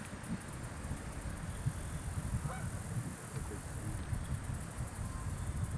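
Outdoor ambience: a steady low rumble of wind or distant traffic under a high insect chirring, with a faint bird call about two and a half seconds in.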